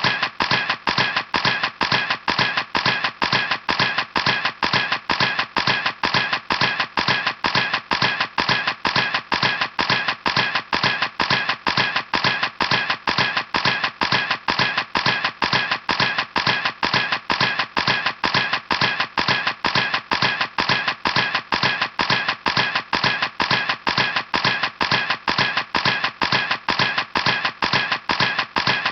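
Camera shutter clicking over and over at an even pace, about three clicks a second, as in continuous shooting.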